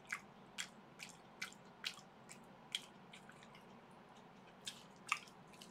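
A person chewing vegetable kakiage (tempura fritter) with the mouth close to the microphone: soft wet mouth clicks about twice a second, pausing for a second and a half past the middle.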